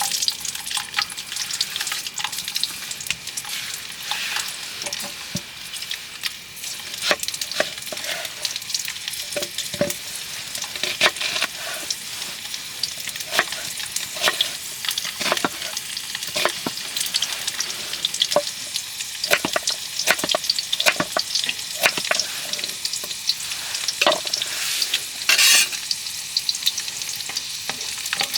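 Food sizzling as it fries in a pan, a steady hiss dotted with frequent irregular pops and crackles.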